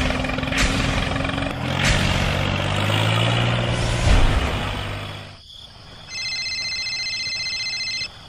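A vehicle engine running, with a few short hisses over it, fading out about five seconds in. Then, near the end, a high electronic tone pulses rapidly and steadily for about two seconds.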